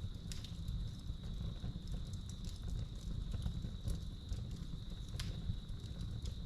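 Wood fire crackling in a fireplace, with irregular sharp pops over a low rumble, while crickets keep up a steady high trill throughout.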